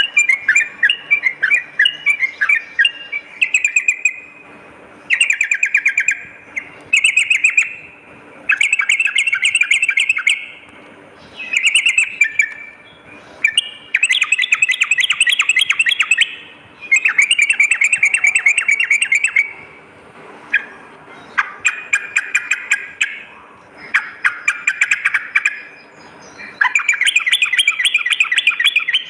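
A trucukan (yellow-vented bulbul) singing repeated rapid, bubbling chattering phrases. Each phrase lasts one to two and a half seconds, with short pauses between them.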